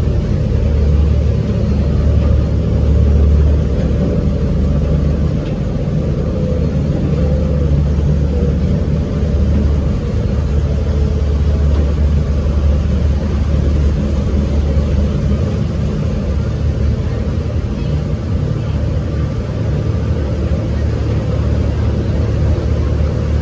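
Tour boat's propulsion running with a steady low drone, heard from on board.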